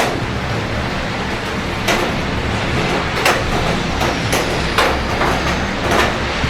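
Steady rain over a low city hum, with irregular sharp taps about once a second, each a short knock on a hard surface close to the microphone.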